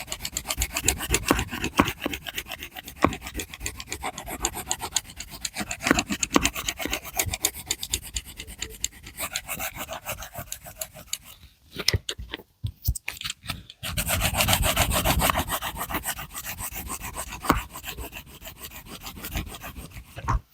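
A drawing tool scratching and rubbing on paper in rapid, dense strokes. A little past halfway it stops for about two seconds, with a few light taps, then carries on.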